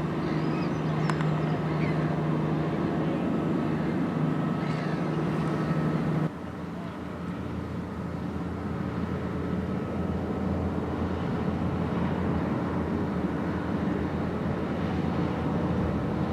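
Steady engine drone of a boat or ship, with a hum of steady tones. About six seconds in it cuts abruptly to another steady, lower engine drone.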